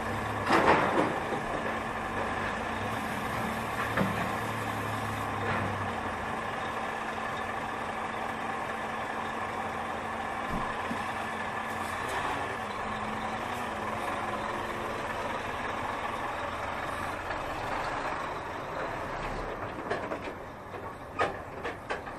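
Lorry engine idling steadily, with a brief louder burst about half a second in.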